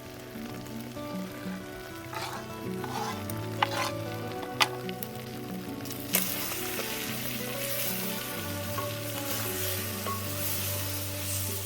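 Food sizzling as it fries in a pot, with a few sharp clinks of a spoon as it is stirred; the sizzle grows louder about halfway through. Soft background music underneath.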